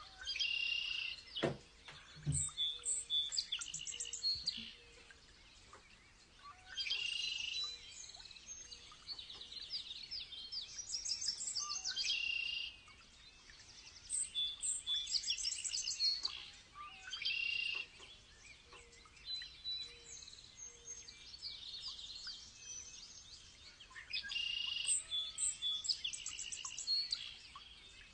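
Songbirds singing: short, bright, high-pitched phrases, each about a second long, repeated every few seconds, with a couple of low thumps about two seconds in.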